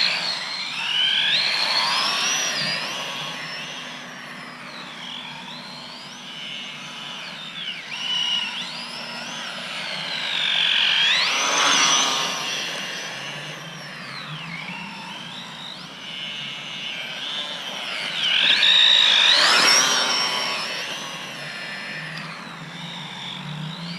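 Small electric RC truck motor whining, its pitch rising and falling as the throttle is worked through drifts. It gets louder twice, about halfway through and again near the end, as the truck passes close.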